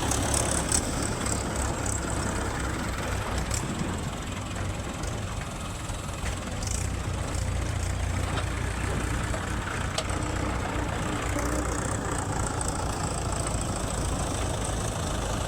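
Heavy diesel machinery engine running steadily with a deep low rumble, with a few brief sharp clicks.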